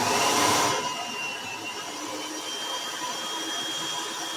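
Electric kitchen shredder's motor switching on and running steadily with a thin high whine, louder and rougher for about the first second.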